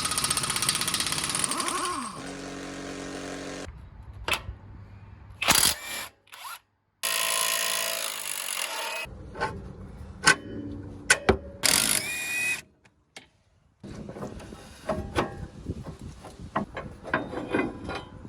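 Impact wrench working on the suspension nuts of a Honda Civic's front hub while the drive shaft is being removed. It runs in two long bursts, the first winding down with a falling pitch about two seconds in. Sharp metal knocks and clanks come in between and after.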